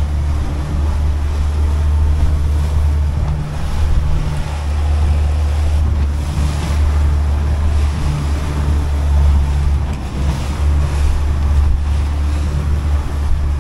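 Boat's Yamaha outboard motor running steadily under way, a low even hum, with wind buffeting the microphone and water rushing past the hull.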